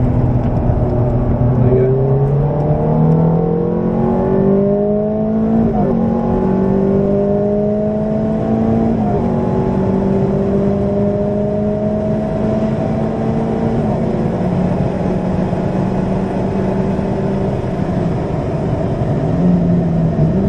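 Ferrari F430's 4.3-litre V8 heard from inside the cabin, accelerating hard on track. The engine note climbs and drops sharply at an upshift about six seconds in and again about nine seconds in, then climbs slowly and settles to a steadier pitch.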